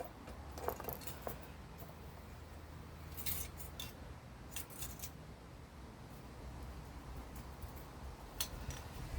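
Scattered light metallic clicks and clinks of hand tools and small parts being handled, a few at a time, over a steady low hum.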